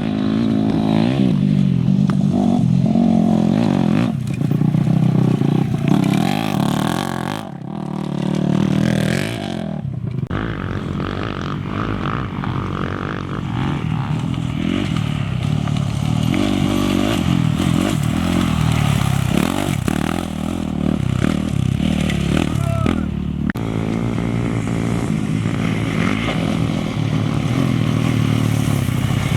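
Off-road racing motorcycle engines revving and running hard, their pitch repeatedly rising and falling. The sound changes abruptly a few times.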